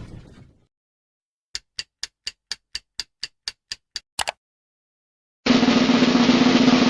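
Game-show sound effect: about eleven sharp countdown ticks, four a second, ending in a quick double tick. Then, after a short silence, a loud snare drum roll starts about two thirds of the way in and holds steady.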